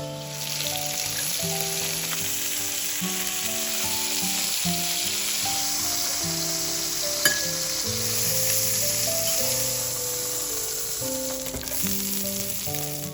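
Food sizzling as it fries in a hot pan, a steady hiss with one sharp click about seven seconds in, under soft background music.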